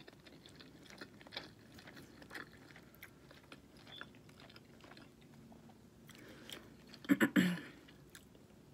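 Faint chewing of food with the mouth closed, with soft wet mouth clicks and smacks. About seven seconds in comes a short, louder burst of voice.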